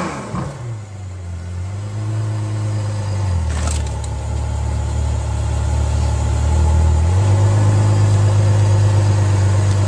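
Ferrari F12berlinetta's V12 engine running at low revs while the car is wedged against a wall, its note shifting in steps a third and two-thirds of the way through as the driver works the throttle. A brief knock about four seconds in.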